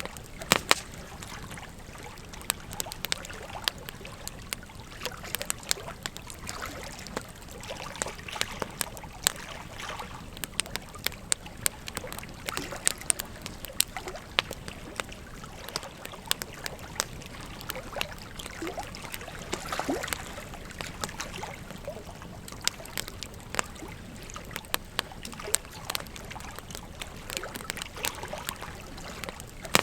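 Wood fire crackling, with frequent irregular sharp pops and snaps, over the steady rush of a flowing river.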